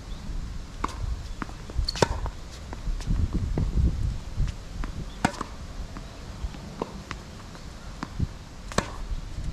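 Tennis rally on a hard court: sharp pops of racket strings on the ball roughly every three seconds, with lighter ball bounces in between, over low wind rumble.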